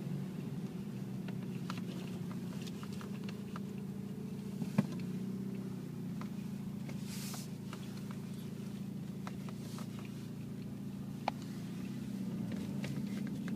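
A vehicle engine running steadily with a low hum, with a few faint clicks and a brief hiss about seven seconds in.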